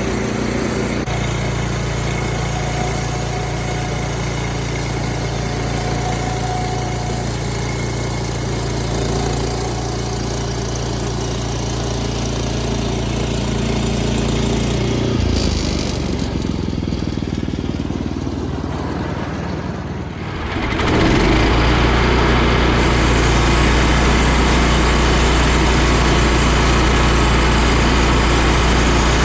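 Engine-driven machinery running steadily. About two-thirds of the way through, the sound changes to a louder, deeper steady engine drone.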